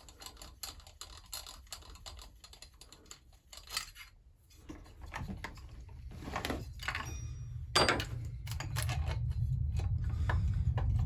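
Irregular small clicks and clinks of hand tools and loose metal parts as fasteners are undone and a part is worked off a Husqvarna 346XP chainsaw during a strip-down. A low steady hum comes in about halfway and grows louder.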